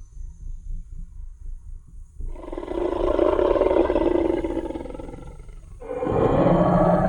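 Tyrannosaurus rex roar sound effect. A low rumble for the first two seconds, then one long roar that fades away, and a second roar rising near the end.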